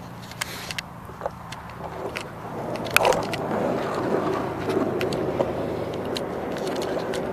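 A vehicle's rumble growing gradually louder, with scattered sharp clicks and one stronger knock about three seconds in.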